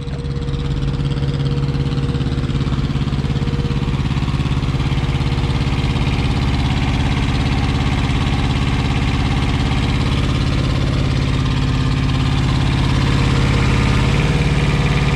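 Semi truck's diesel engine idling steadily while it runs with little coolant in the radiator; its note shifts and grows slightly louder near the end.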